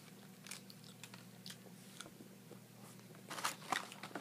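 A person chewing a chocolate orange-cream truffle: faint wet mouth clicks, then a short run of louder smacks about three and a half seconds in.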